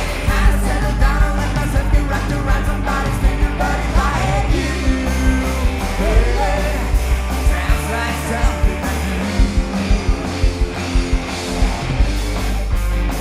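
Rock band playing live, with a steady drum beat under the guitars and bass, and a sung vocal line through roughly the first half.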